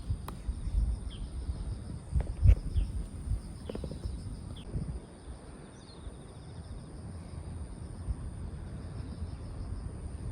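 Night insects trilling steadily in high, unbroken tones, with a few low knocks and rustles, the loudest about two and a half seconds in.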